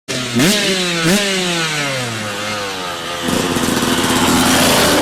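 Dirt bike engine revved in two quick blips, its pitch then sliding down as it winds off, followed from about three seconds in by a rougher, louder run as it pulls under throttle.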